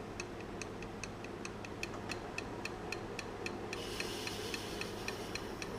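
Wood lathe turning slowly, at around 200 RPM, with a steady light ticking of about five ticks a second over a low running hum. About two-thirds of the way through, a faint hiss joins.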